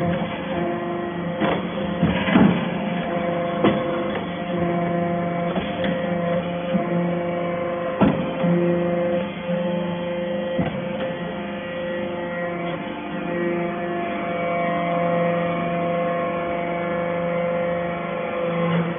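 Hydraulic metal-chip baler running, its motor and hydraulic pump giving a steady hum, with a few sharp knocks in the first half.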